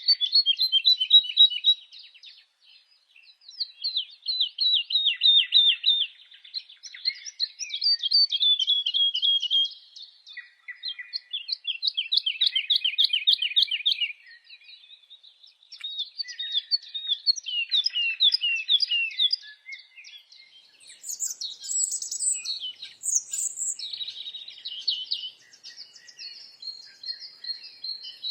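A songbird singing in phrases of about two seconds, each a fast trill of short repeated notes, with brief pauses between. Higher, sharper notes join in about two-thirds of the way through.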